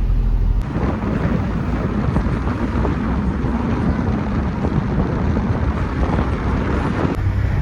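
Wind buffeting the microphone over a rumbling vehicle noise. It cuts in about half a second in and stops abruptly near the end, leaving a steadier low car hum.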